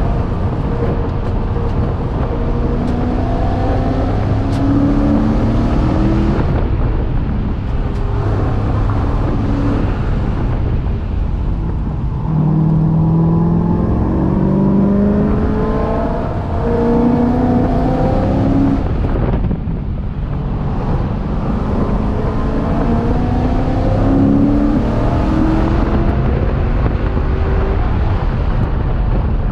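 C6 Corvette race car's V8 engine at full throttle, heard from inside the car, its pitch climbing again and again as it accelerates and upshifts. It eases off briefly twice, about a quarter and two-thirds of the way through.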